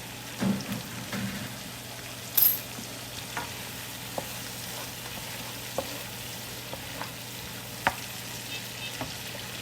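Pork stir fry sizzling in a pan as it is stirred: a steady frying hiss with scattered clicks and scrapes of the utensil against the pan, the loudest scrape about two and a half seconds in.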